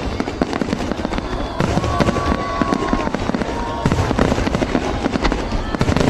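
Fireworks display: a dense, continuous barrage of bangs and crackling, with a short whistling tone about two seconds in.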